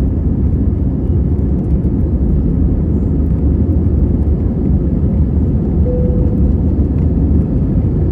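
Jet airliner noise: a steady low rumble of engines and rushing air, with no change in pitch.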